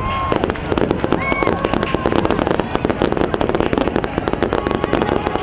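Starmine fireworks barrage: a dense, unbroken run of shell bursts and sharp pops following one another several times a second.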